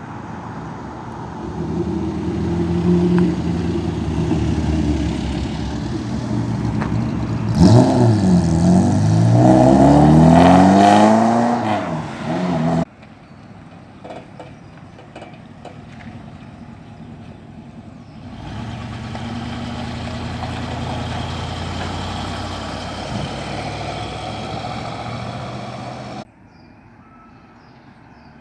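Car engines driving off past the microphone in a string of short clips, with abrupt changes from one car to the next. About eight seconds in, one car's engine is revved hard, its pitch swooping down and back up for about five seconds; it is the loudest sound.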